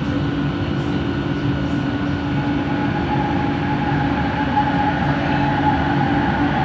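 Bombardier Innovia ART 200 train's linear induction motor drive running with a steady rumble and hum. A whine sets in about halfway through and slowly rises in pitch: the motor noise the uploader calls weird.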